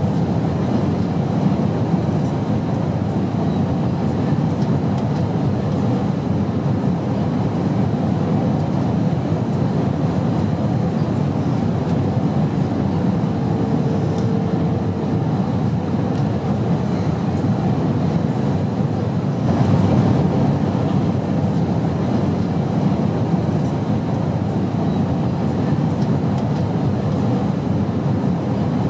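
Airplane noise: a steady, continuous low drone that swells slightly about two-thirds of the way through.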